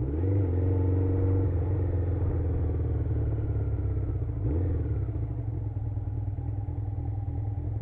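Motorcycle engine pulling away and rising in pitch, then a brief dip and climb about four and a half seconds in as it shifts up a gear, then running steadily at cruising speed.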